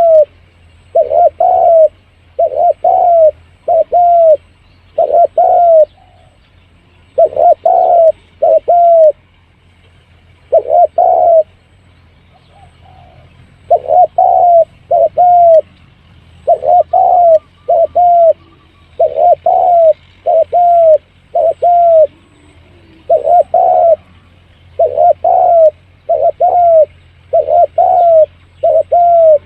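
Spotted dove cooing, repeated phrases of two to four mellow coo notes with short gaps between phrases, the kind of call played to lure wild doves in. A faint steady low hum lies underneath.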